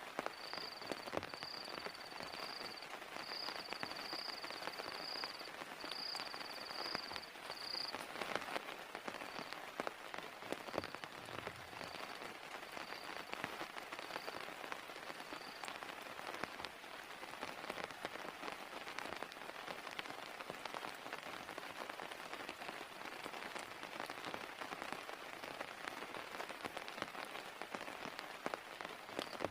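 Heavy rain falling steadily, with individual drops tapping close by. A high chirping call repeats over and over through the first half and fades out about halfway through.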